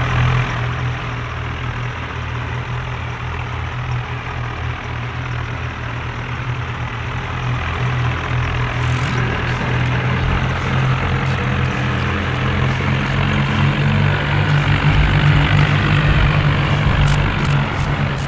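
Tractor diesel engine running steadily, growing louder from about eight seconds in.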